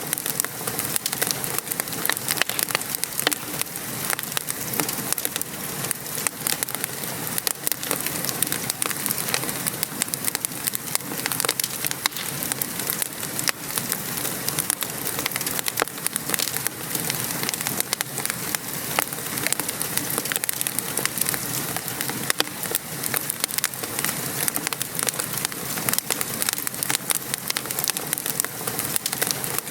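Steady patter of rain mixed with a crackling fireplace fire, with many small sharp pops and ticks throughout.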